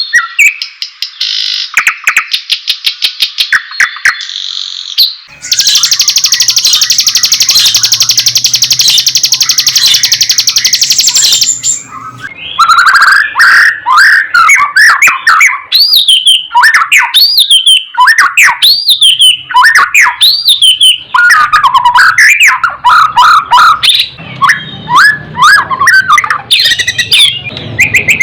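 White-rumped shama singing: a rapid clicking chatter, then about six seconds of dense buzzy trilling, then loud varied whistled phrases sweeping up and down.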